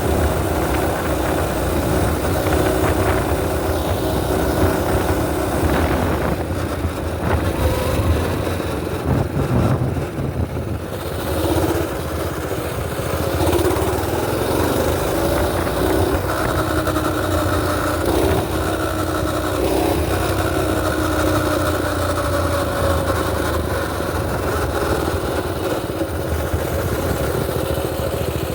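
Mini bike engine running, its pitch rising and falling as the throttle is opened and eased through the middle, then holding fairly steady.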